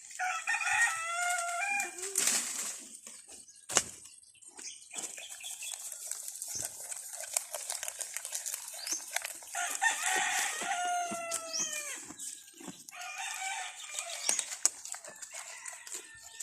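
A rooster crowing three times, the middle crow falling in pitch at its end. Under it runs a constant crackling and crunching of leaves being chewed.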